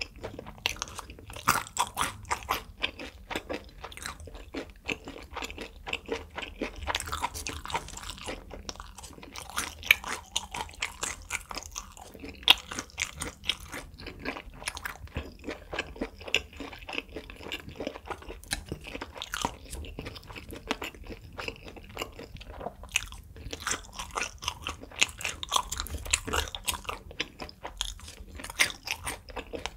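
Close-miked chewing and biting of grilled beef intestine (makchang), a dense, irregular run of clicks and smacks.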